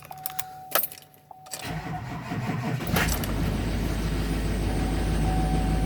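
A 2007 GMC Sierra 2500HD's 6.6-litre Duramax diesel V8 cold-starting. After a few clicks, the starter cranks from about a second and a half in. The engine catches about three seconds in and settles into a steady idle.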